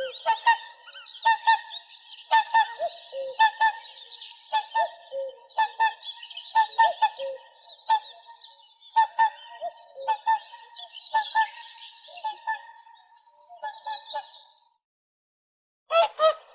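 Whooper swans calling: a dense run of short, pitched honking calls, several overlapping. The calls stop for about a second and a half near the end, then start again.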